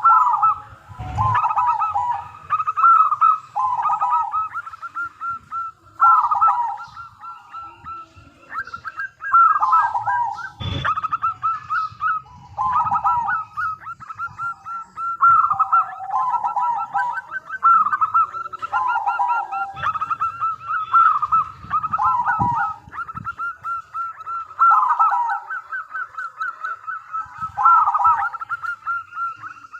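Zebra doves (perkutut) cooing, with trilled phrases repeated every two to three seconds and overlapping one another.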